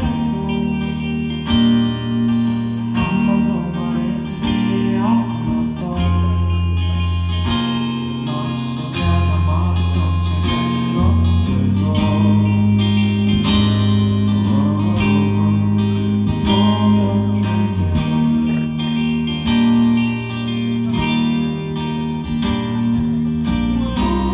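A live rock band playing: guitar with a bass line changing note every second or two and steady drum hits.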